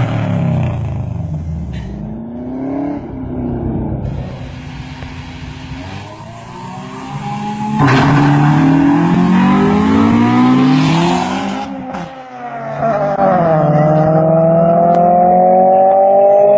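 Big-block Chevy 454 V8 in a Toyota pickup revving through the gears. The engine pitch winds down, climbs sharply and loud about eight seconds in, drops briefly at a shift, then rises in a long, steady pull near the end.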